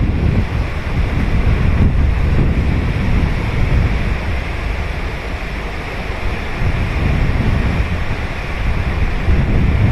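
Ocean surf breaking and washing on a sandy beach, a steady rushing noise that swells and eases, with wind buffeting the microphone in a low rumble.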